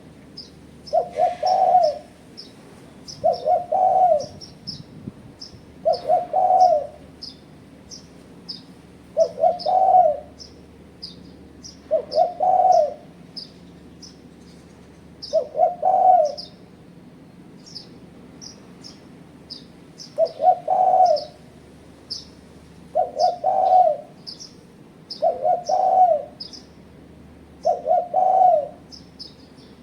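Spotted dove (tekukur) cooing in repeated phrases, about ten of them, one every two to three seconds with a longer pause midway. Small birds chirp rapidly and high-pitched behind it.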